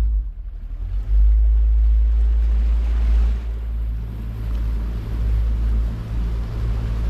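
Boat on the water with its motor running as a steady low rumble, wind buffeting the microphone over it.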